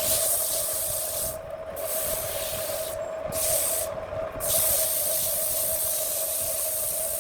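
Handmade wood lathe running with a steady hum while the spinning wood is worked against, giving a high rubbing hiss. The hiss stops briefly three times, about one and a half, three and four seconds in, as contact is lifted off.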